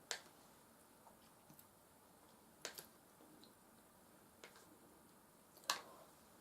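Quiet eating sounds: a few sharp mouth clicks and smacks, about five, spaced out over several seconds, with the loudest near the end, from someone eating soft mashed potatoes and beef stew.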